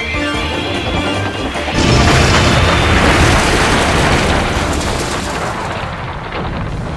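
Dramatic background music, then about two seconds in a sudden loud boom, a crash sound effect that rumbles on and slowly dies away over several seconds.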